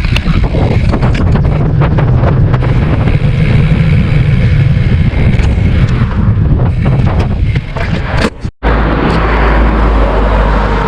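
Wind buffeting the action camera's microphone while riding a bicycle, a heavy low rumble with scattered knocks. The sound cuts out for a moment about eight and a half seconds in and resumes as a steadier low rumble.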